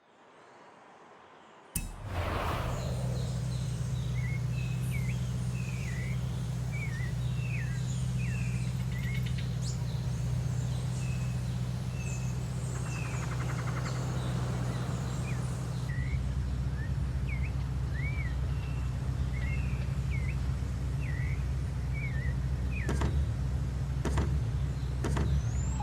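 Audi RS4 engine starting with a sudden burst about two seconds in, then idling steadily with a low, even hum. Birds chirp over it, and a few sharp clicks come near the end.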